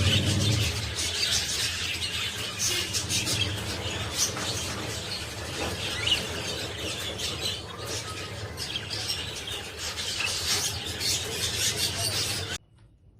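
Cockatiel chirping and squawking in short calls over a noisy background, cut off suddenly near the end.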